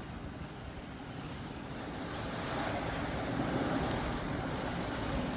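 Typhoon Hagibis winds rushing around a high-rise building, heard from inside: a steady low rushing that swells louder about two seconds in.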